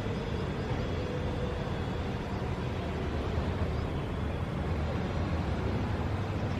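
Steady low rumble of city traffic, with a few faint, short, high bird chirps in the first second and once more a little past halfway.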